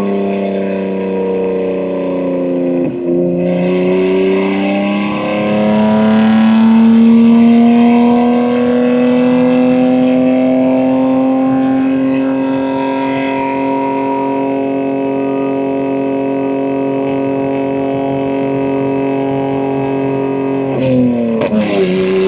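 BMW M2 G87's S58 twin-turbo inline-six, running through catless downpipes and an equal-length mid pipe, droning steadily under way. The engine note dips about three seconds in, then climbs slowly and holds level for a long stretch, and drops sharply near the end.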